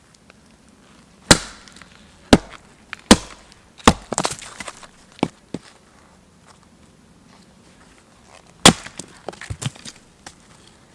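Wood being chopped: sharp strikes at uneven intervals, one followed by a brief crackle of splintering, then a pause of about three seconds before another hard strike and a few lighter knocks.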